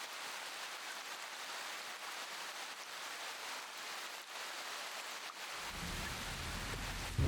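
Steady rain falling, an even hiss. A low rumble of thunder begins near the end and builds.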